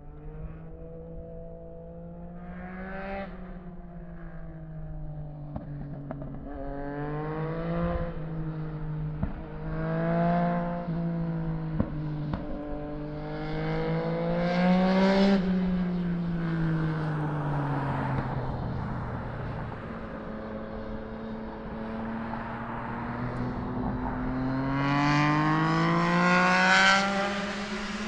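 Yamaha Tracer 900 GT's three-cylinder engine through a LexTek full exhaust system, under way, its pitch rising and falling again and again as the throttle is opened and eased off. After a lower, steadier stretch past the middle, it climbs to its loudest near the end.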